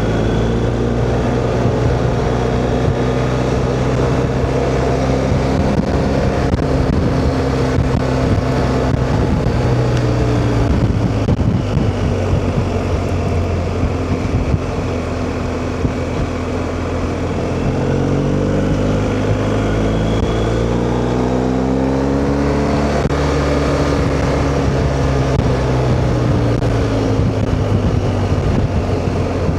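BMW R1250GS Rallye's boxer-twin engine running while riding, with wind and road noise. The engine note falls a little around ten seconds in, then climbs steadily about two-thirds of the way through as the bike accelerates.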